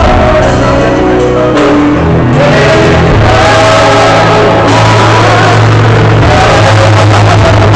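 Loud gospel singing by several voices with instrumental accompaniment and a steady bass line.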